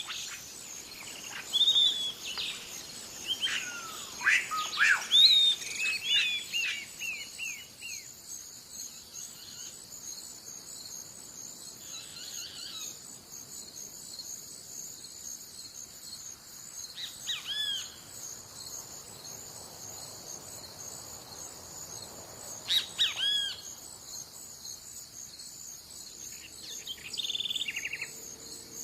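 Wild birds singing and calling, with a busy run of sweeping whistled calls in the first several seconds and single calls about two-thirds of the way through. A steady high insect drone runs underneath.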